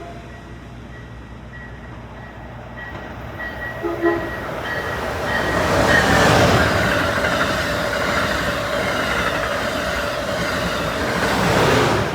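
Amtrak Acela high-speed trainset passing at speed: the rush of wheels and air builds to a loud peak about halfway through, holds steady, then drops away quickly at the very end.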